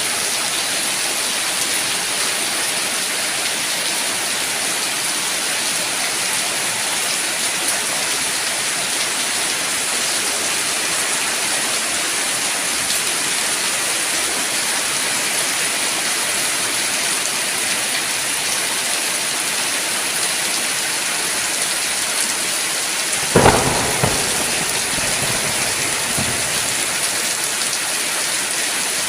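Steady, even rainfall hissing down. About three-quarters of the way through comes a sudden sharp crack, the loudest moment, with a smaller second hit just after it.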